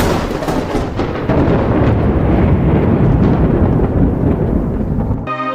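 Thunder: a sharp crack at the start, then a long low rumble that cuts off abruptly about five seconds in. Ambient music with sustained notes takes over near the end.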